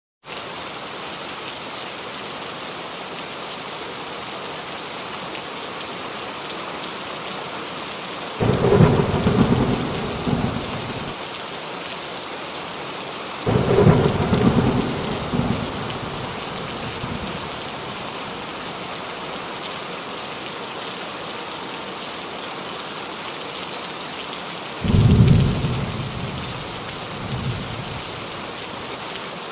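Steady heavy rain falling on a roof, with three rolls of thunder that each break in suddenly and rumble away over a few seconds: about eight seconds in, about thirteen seconds in and near the end.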